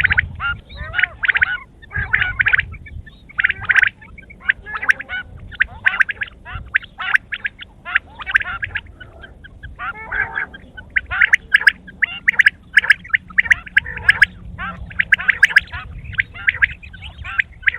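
Quail calling in runs of short, rapid chattering notes, one burst after another with brief pauses, over a steady low rumble.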